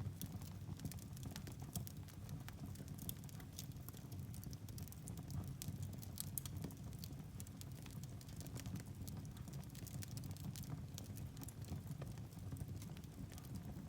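Firewood burning in a fireplace: a steady low rumble of flame with frequent irregular crackles and pops from the logs.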